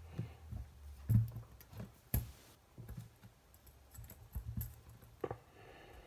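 Irregular clicks and light knocks of small parts being handled and fitted together while a soldering station kit is assembled, with the sharpest clicks about a second and two seconds in and another near the end.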